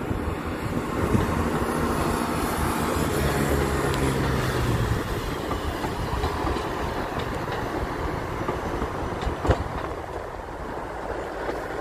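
A train running on the tracks with a steady noise of wheels on rail. A low engine hum sits under it for the first five seconds and then fades, and there is one sharp knock about nine and a half seconds in.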